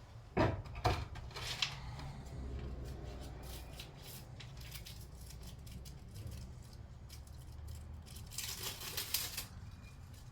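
Tools and parts being handled: two sharp knocks about half a second apart near the start, a lighter knock after them, then a short scraping rustle near the end, over a low steady hum.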